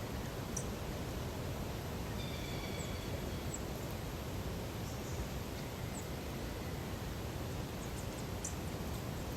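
Natural lakeside ambience: a steady low rush of background noise with faint, scattered high bird chirps. One longer, held bird call comes about two seconds in.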